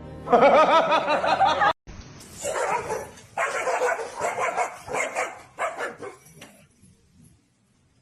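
A dog vocalizing: a wavering, drawn-out whine, then a run of short barks and yips that stop about six and a half seconds in.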